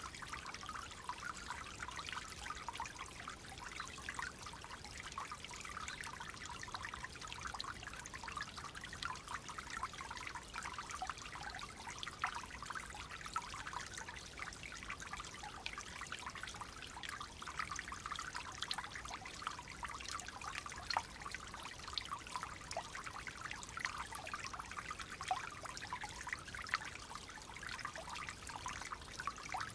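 Clear water flowing and trickling steadily, with a constant bright babbling of small splashes.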